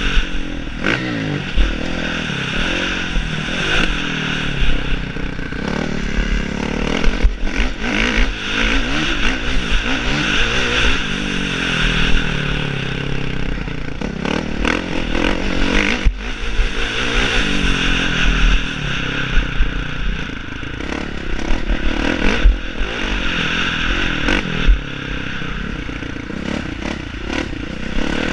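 Motocross dirt bike engine revving up and down again and again as it is ridden, with occasional sharp knocks.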